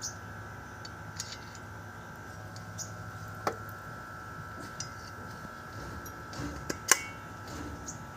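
Scattered light clicks and knocks from alternator parts being handled during a bearing replacement, the loudest knock about seven seconds in and a sharp one about halfway, over a steady background hum.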